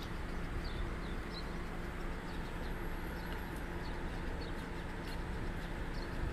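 Small birds chirping in many short, high notes over a steady low hum of outdoor background noise.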